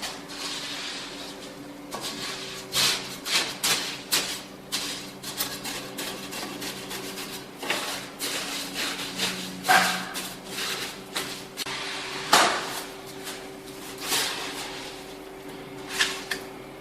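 Irregular knocks, taps and scrapes of hand work on ceramic stove tiles and mortar, with a sharp knock about twelve seconds in. A steady low hum runs underneath.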